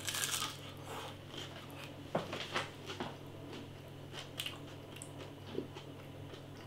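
A person chewing crisp-coated roast potatoes, with scattered small crunches and mouth noises over a steady low hum.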